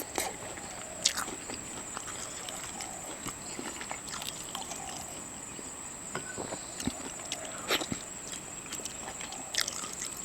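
Steady, high-pitched drone of insects, with scattered soft clicks and rustles.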